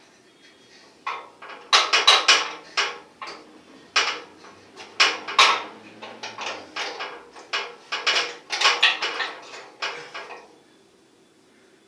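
Metal parts and hand tools clinking and clattering: a quick, irregular series of sharp metallic clanks, starting about a second in and stopping shortly before the end.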